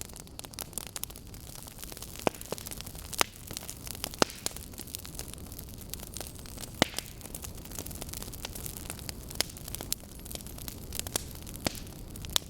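Wood fire burning: logs crackling with frequent small sharp pops over a steady hiss, with several louder pops scattered through.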